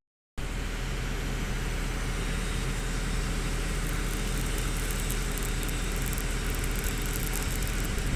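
Excavator's diesel engine running steadily, cutting in abruptly just after a brief dropout at the start.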